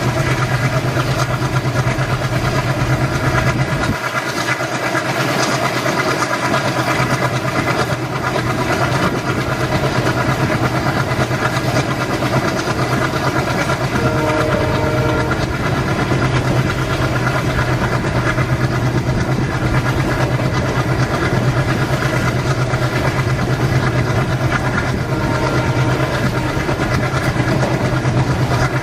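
Indian Railways locomotive running steadily with a constant low drone and a dense hum of steady tones. A brief horn note sounds about halfway through.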